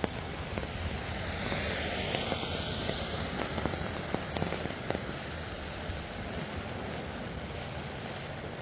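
Steady rain on an umbrella, with many sharp drop ticks, while a car passes on the wet road: its tyre hiss swells over the first few seconds and fades away.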